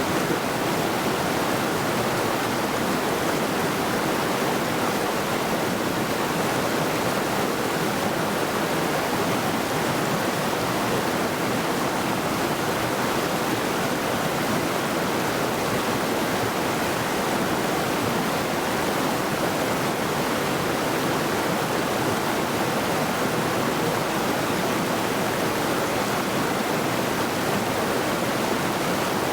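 A mountain river rushing over rocks: steady, unbroken water noise.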